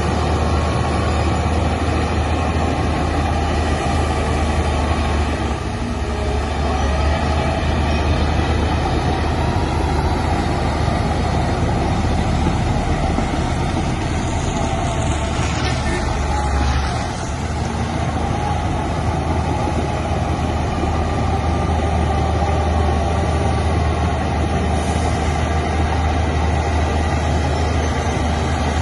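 Heavy diesel earthmoving machinery running steadily: a deep, constant engine drone that dips briefly twice.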